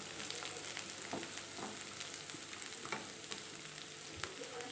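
Sliced onions, garlic, ginger and bay leaves sizzling as they sauté in a non-stick frying pan, stirred with a wooden spatula. A steady hiss, with a few light taps where the spatula meets the pan.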